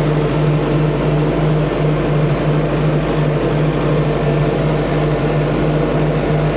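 CAT D5 bulldozer's diesel engine running steadily at a constant pitch with a slight pulsing drone, working in deep swamp mud.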